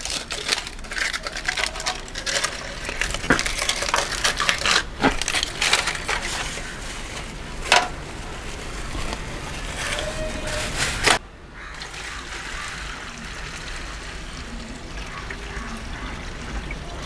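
Greasy metal engine parts being stirred and scrubbed in a tray of petrol: liquid sloshing and splashing with frequent metal clinks and knocks. It settles into a quieter, steadier wash about eleven seconds in.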